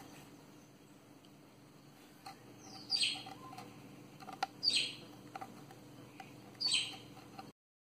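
A bird chirping three times, each a short call falling in pitch, over a few faint ticks of a metal pick on brass screw heads. The sound cuts off suddenly near the end.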